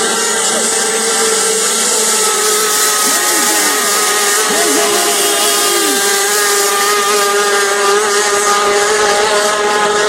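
Racing powerboat engines running hard in a steady high-pitched drone. Between about three and six seconds in, several engine notes swoop up and down in pitch as boats go by.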